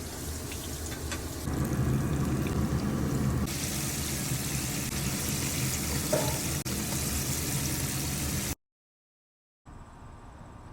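Chicken wings frying in hot oil, bubbling and sizzling steadily and growing louder after the first second or so. Near the end the sound cuts out for about a second and comes back quieter.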